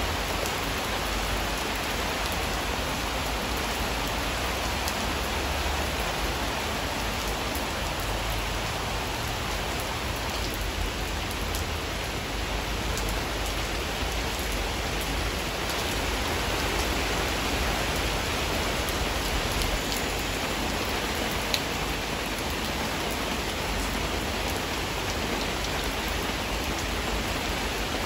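Steady rain falling on garden foliage, an even hiss of drops on leaves. One sharp tick about three quarters of the way through.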